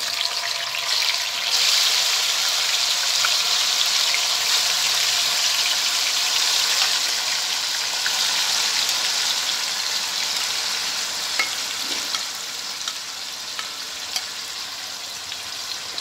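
Yogurt-marinated minced chicken sizzling as it is scraped into hot oil and fried garlic in a wok. The sizzle is strongest in the first half and eases after about twelve seconds, with a few light clicks of a spatula against the pan near the end.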